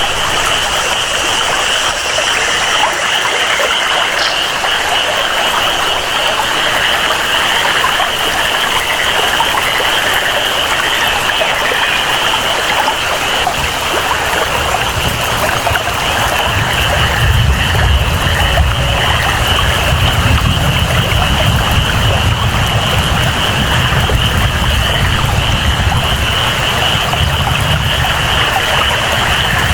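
Tropical rainforest ambience: steady rain and flowing water under a constant high-pitched chorus of frogs. A deeper low rumble comes in about halfway through.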